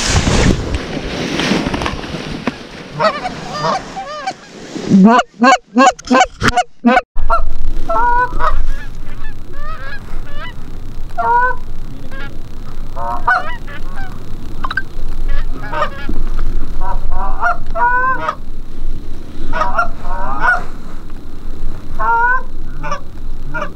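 Canada geese honking: a burst of loud, rapid honks about five seconds in, then a string of repeated honks to the end.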